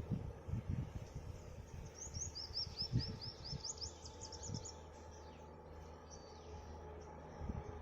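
A bird gives a quick run of about a dozen short, high chirps, from about two seconds in to about four and a half, with a few single calls later. Under it is an uneven low rumble and a faint steady hum.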